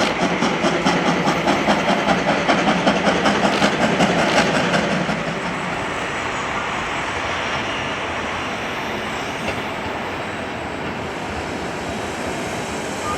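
Steam locomotive C57 1 accelerating hard with fast, even exhaust beats, about four a second, which stop about five seconds in; a steady rushing noise follows as it runs on.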